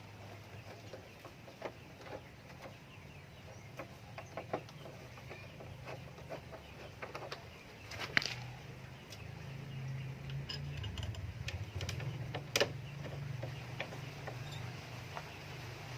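Scattered light clicks and knocks of tools and metal parts being handled while a horn loudspeaker is bolted onto a motorcycle, with two sharper knocks, one about halfway through and one near the end, over a steady low hum.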